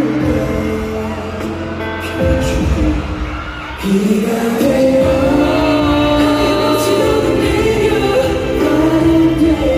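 Live pop ballad heard in a large hall: the band track and singing coming over the concert sound system, the music dipping and then swelling back up about four seconds in.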